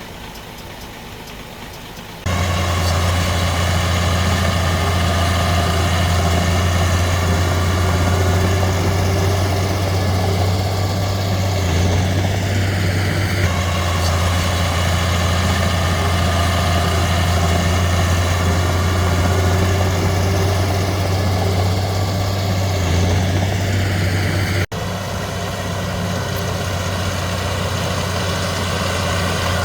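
Komatsu D31P bulldozer's diesel engine running steadily with a deep low hum. It cuts in abruptly about two seconds in and drops out for an instant near the end.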